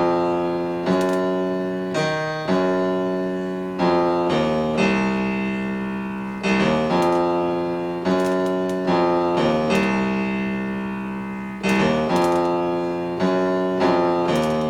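Piano chords played one after another from Maschine Studio's pads in keyboard mode, in a blues scale: each chord struck sharply and left to fade, a new one roughly every one to two seconds.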